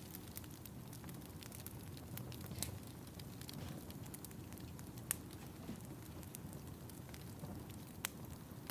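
Wood fire crackling in a fireplace: a steady low rumble with scattered sharp pops, the loudest about five and eight seconds in.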